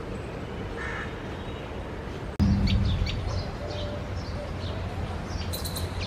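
Small birds chirping in a string of short, sharp high calls, the strongest near the end, over a steady low rumble that jumps louder about two and a half seconds in.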